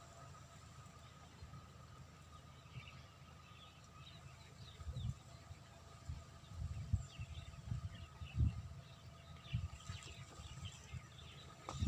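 Faint bird chirps, scattered and more frequent in the second half, over a faint steady whine and irregular low rumbling thumps.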